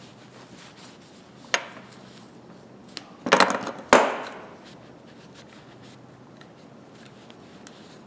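Metal slip-joint pliers being handled and set down on a workbench: a single click, then a short clatter of knocks about three seconds in, ending in one loud knock with a brief ring.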